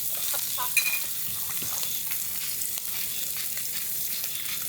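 Meat sizzling as it grills, a steady crackling hiss. There is a short clink about a second in.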